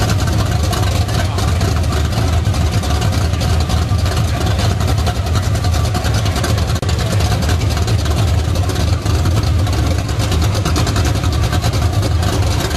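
Car engine with open exhaust headers idling, a loud, steady low rumble with no revving.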